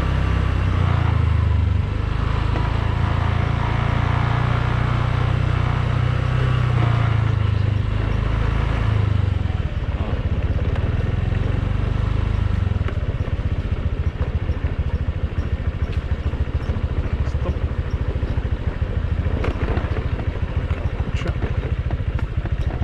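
Motor scooter running on the move, with a heavy low rumble of wind on the microphone. From about halfway the rumble gives way to a rapid, even pulsing of the engine.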